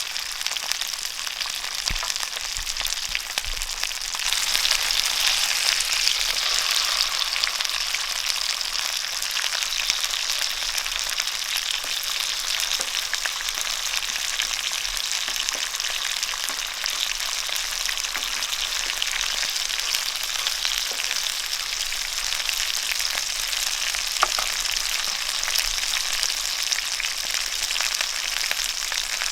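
Food frying in a hot pan with a steady sizzle that grows louder about four seconds in and then holds.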